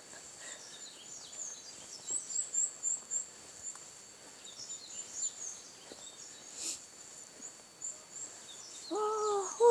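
Small songbirds chirping and singing in woodland, many short high-pitched notes coming in clusters. A person's voice sounds briefly near the end.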